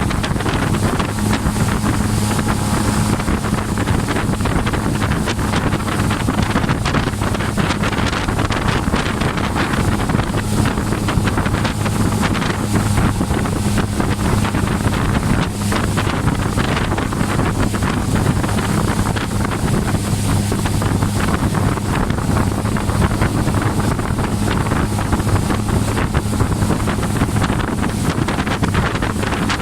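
Motorboat engine running steadily while towing a wakeboarder, a constant low drone, with wind buffeting the microphone and water rushing.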